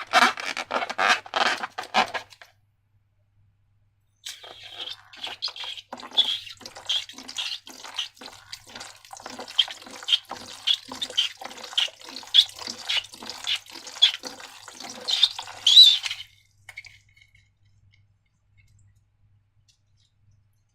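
Wet slime squelching: a short run of squishes at the start, a pause of about two seconds, then a steady rhythm of squelching strokes a little under two a second that stops about four seconds before the end.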